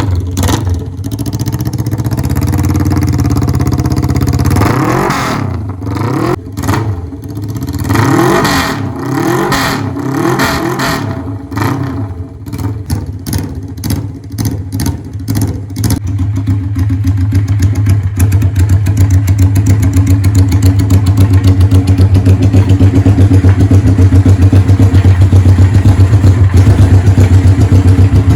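Suzuki GS400's air-cooled parallel-twin engine running. About five seconds in, it is revved up and down repeatedly for roughly ten seconds. It then settles into a steady, louder run with an even pulse.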